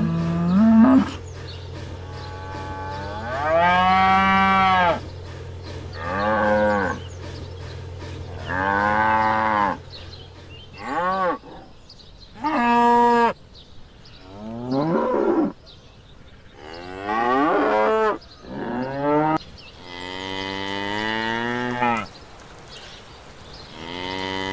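Cattle mooing: a string of about ten separate moos, some long and drawn out, some short, with pauses between them. A steady low hum runs under the first half and stops about halfway through.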